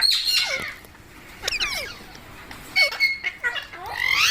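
A green parrot calling: a series of sharp squawks that sweep up and down in pitch, with two short held whistled notes about three seconds in and a rising squawk near the end.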